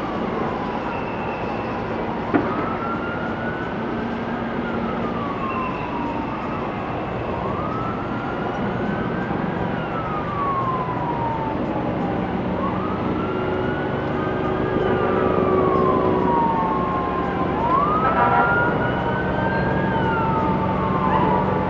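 Emergency vehicle sirens wailing in slow rising and falling sweeps every four seconds or so, over a steady traffic rumble; a second siren overlaps with the first in the second half, and it all grows louder toward the end. A single sharp click about two seconds in.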